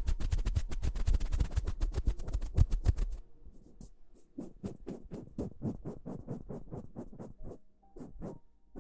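Close-miked ASMR tapping: a fast run of sharp taps with a deep thump for about three seconds, then slower, softer separate taps.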